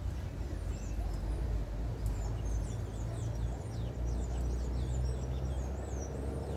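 A flock of anis chattering: many short, quick, high-pitched calls overlapping, over a steady low rumble.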